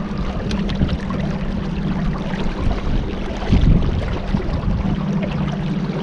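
Motorboat underway, its engine running with a steady low hum under the rush of water and wind, with a brief louder swell about three and a half seconds in.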